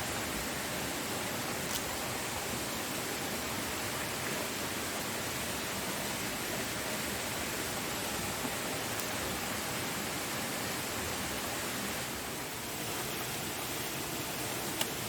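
Steady rushing of a waterfall, an even wash of falling water, with a single short click near the end.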